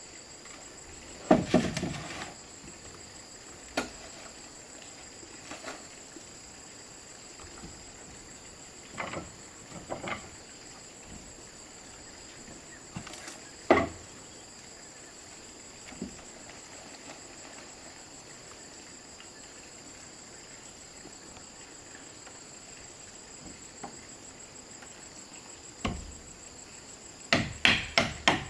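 Scattered knocks and chops of a hand tool striking wood, turning near the end into a quick run of strikes about three a second, over the steady high chirring of insects.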